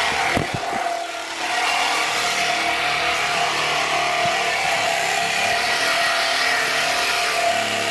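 Cordless reciprocating saw (Sawzall) running steadily with its blade cutting into the exhaust pipe, the motor's pitch holding steady after a brief dip about a second in.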